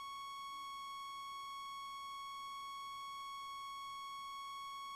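A single steady electronic beep tone with a thin buzzy edge, held unbroken at one pitch and one level.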